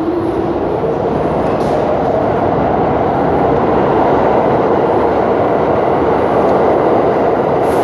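New York City subway train running through a tunnel, heard from inside the car: a loud, steady rumble of wheels on rail that grows slightly louder.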